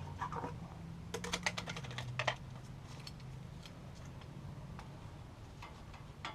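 A quick run of sharp metallic clicks from hand tools on the brake hardware about a second in, then a few scattered clicks, over a low steady hum.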